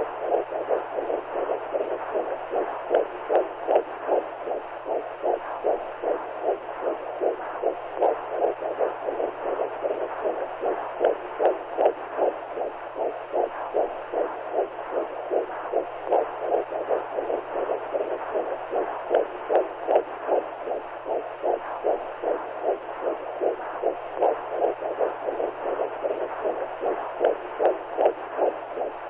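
Womb sound for soothing a newborn: a steady muffled whooshing with a maternal heartbeat pulsing through it about twice a second.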